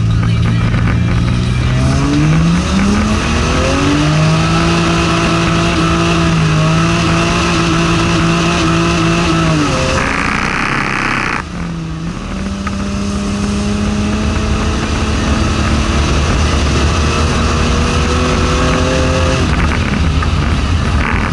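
Toyota Supra's engine heard from inside the cabin as the car accelerates. The revs climb about two seconds in and hold, then a short hiss and a drop in revs at a gear change midway, followed by a slow climb in revs that eases off near the end.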